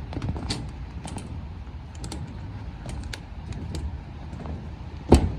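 Footsteps picking over construction debris: irregular small clicks and crunches, with one loud knock near the end.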